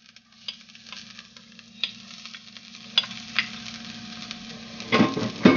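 Minced garlic and ginger sizzling in hot vegetable oil in a stainless skillet: a steady frying hiss with sharp pops and crackles scattered through it, and two louder bursts near the end.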